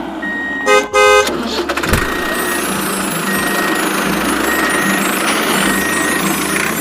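A toy vehicle's electronic sound effects: a reversing-style beep repeating about once a second, a loud double horn honk about a second in, and a steady engine-like rumble behind them.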